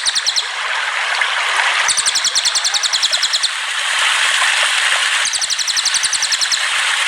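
A songbird's rapid, evenly pulsed high trill, repeated in bursts about a second and a half long, over a steady rush of running water.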